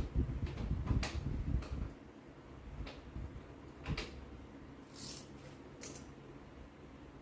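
Scattered handling noises: a few sharp clicks and knocks about a second apart, then two short scraping hisses near the end, over a low rumble in the first two seconds.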